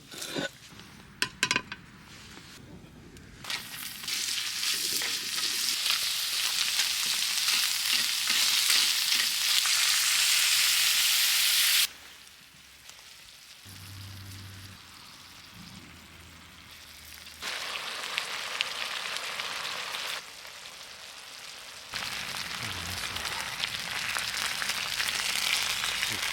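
Food frying in a pan, a sizzling hiss that comes in several stretches and stops and starts abruptly between them, loud in some and quieter in others. A few sharp knocks or clicks come in the first two seconds.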